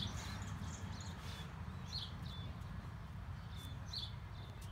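Small birds chirping on and off in short high calls, over a low steady background rumble.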